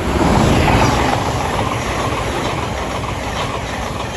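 Thameslink Class 700 electric multiple unit passing through at speed: a loud rush of wheel and air noise that comes in suddenly, is loudest about half a second to a second in, then holds steady.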